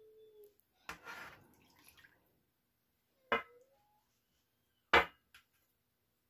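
Kitchen handling sounds: a knock about a second in with a brief splash of liquid after it, then a short clink and a louder knock of dishes or utensils a few seconds later.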